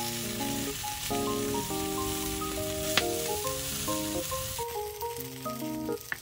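Bacon-wrapped rice rolls sizzling in a nonstick frying pan, with one sharp tap about three seconds in. The sizzling cuts off about two-thirds of the way through, and gentle melodic background music plays throughout.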